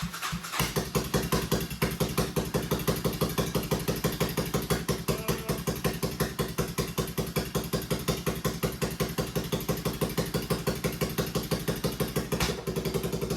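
1987 Suzuki Savage 650's single-cylinder engine catching about half a second in, then idling with an even, rapid pulse. It is the bike's first start after sitting for about 24 years.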